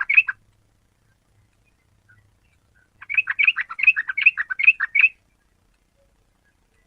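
Yellow-vented bulbul (Pycnonotus goiavier) singing: a short burst of notes right at the start, then about three seconds in a quick, bubbly phrase of around ten chattering notes lasting about two seconds.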